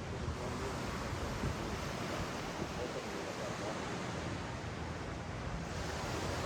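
Ocean waves washing up and down a beach: a steady rush of surf, with faint distant voices.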